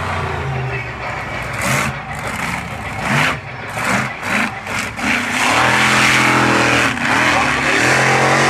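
Bigfoot monster truck's engine revving during a run: short throttle blips that rise and fall through the middle, then held at high revs for the last few seconds, with a brief dip shortly before the end.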